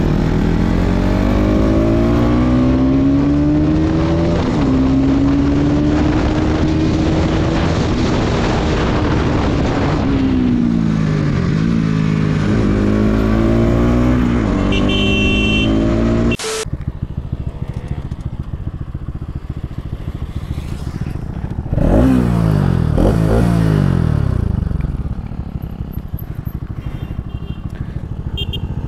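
Bajaj NS200 single-cylinder motorcycle engine being ridden hard, its revs climbing and dropping repeatedly through the gears. About 16 seconds in the sound cuts off abruptly to a quieter engine note, followed by another rise and fall in revs.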